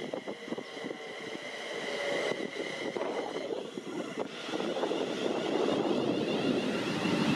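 A train approaching on the main line, its rushing noise growing steadily louder from about halfway through, with high steady ringing tones over it.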